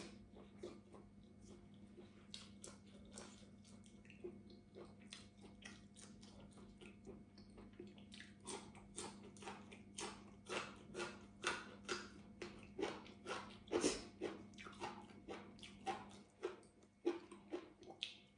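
A person chewing food with the mouth close to the microphone: wet smacks and crunches, about one or two a second, becoming louder and more frequent about halfway through.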